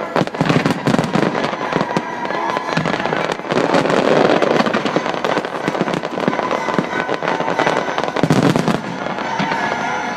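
Starmine fireworks barrage: aerial shells launching and bursting in rapid succession, many sharp reports overlapping with crackle.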